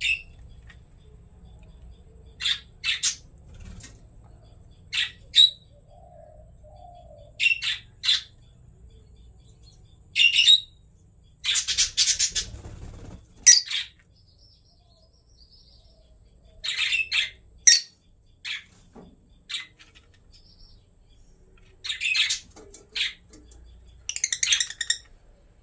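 Lovebirds giving short, shrill squawks and chirps, mostly in quick pairs every couple of seconds, with a longer burst of chattering about halfway through.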